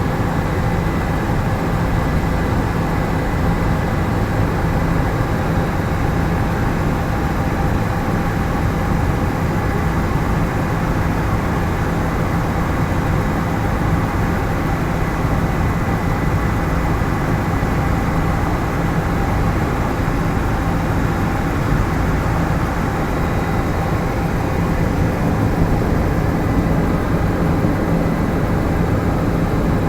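Helicopter in flight, its rotor and engine running steadily: a loud, even drone with a few faint steady tones over it.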